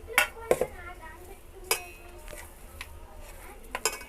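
A metal spoon knocking and clinking against metal cookware: a handful of sharp clinks with a short ring, spread a second or more apart, two coming close together near the end.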